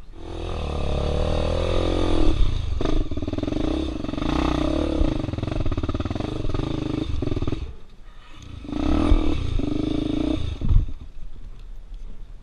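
Off-road dirt bike engine revving hard in long bursts, dropping back briefly about eight seconds in, revving up again, then falling off near the end.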